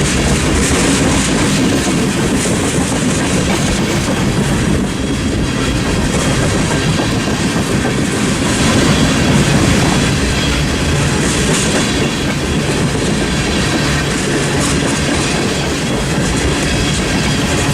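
A train's cars rolling past on the rails, a steady loud rolling noise of wheels on track that never lets up.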